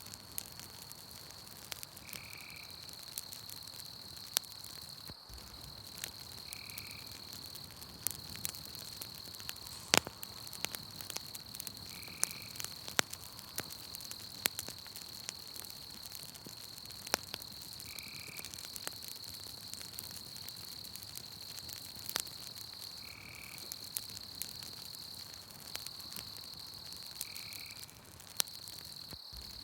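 Campfire crackling with scattered sharp pops over a night-forest background: a steady high insect trill, and a short call repeating every four to six seconds.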